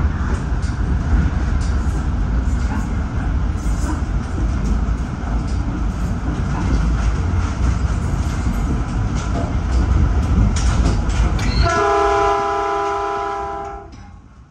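Caltrain commuter train running, heard from the cab: a steady low rumble with rail clatter, then one multi-note horn blast about two seconds long near the end, after which the running noise drops away.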